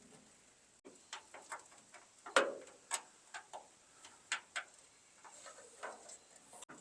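Scattered light clicks and knocks, a dozen or so at uneven spacing, the loudest about two and a half seconds in, from work fitting a pickup tailgate onto its hinges.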